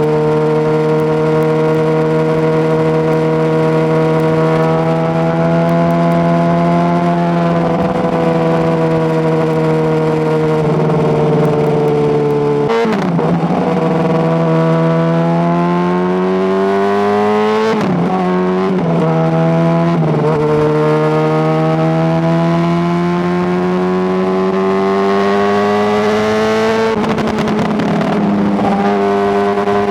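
Honda CBR600RR inline-four sportbike engine running under way. The note holds steady, then breaks and dips briefly about three times, climbs steadily in pitch through the second half, and drops near the end.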